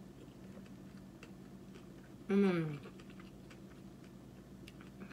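A person chewing French fries close to the microphone, with faint scattered wet mouth clicks over a steady low hum. About two and a half seconds in comes one short hummed "mmm" that falls in pitch.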